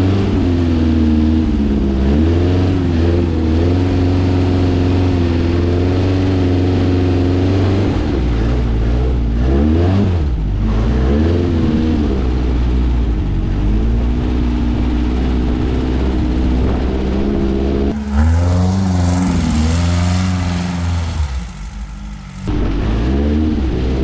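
Volkswagen 1600cc air-cooled flat-four engine in a dune buggy, revving up and down again and again while the buggy slides and spins in snow. Near the end a loud hiss comes in for about four seconds as the engine drops off briefly.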